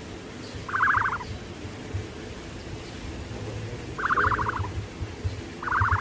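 An animal call, a short, rapidly pulsed burst of about half a second, heard three times.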